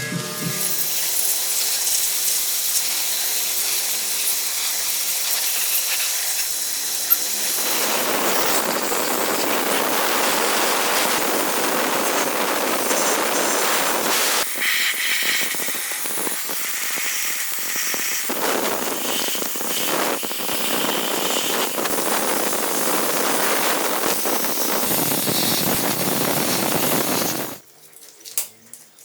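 A loud, steady hiss from a pressurised jet, with a few brief dips. It stops suddenly near the end.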